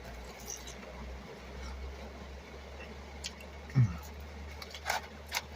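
Soft eating sounds from a person eating fries with coleslaw: a few short wet clicks and smacks, and one brief low thump about four seconds in, over a steady low hum.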